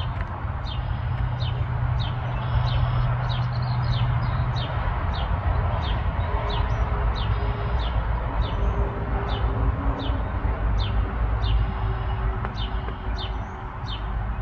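Small songbird chirping repeatedly: short, high, downward chirps about one to two a second. A steady low rumble runs underneath.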